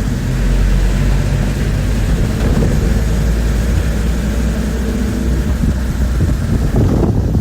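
Inside a moving bus: a steady low rumble of engine and road noise, with the engine's hum under the din of the ride.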